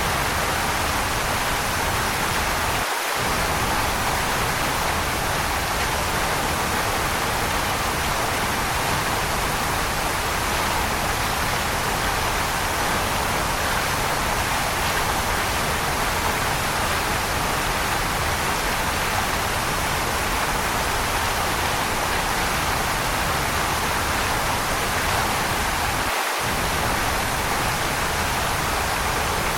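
Waterfall rushing in a steady, even roar of falling water, with the low rumble dropping out for a moment twice.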